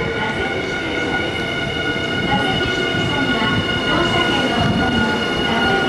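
A Nankai electric commuter train moving along the station platform, a steady rumble of wheels and motors with high steady ringing tones and slowly shifting lower motor tones.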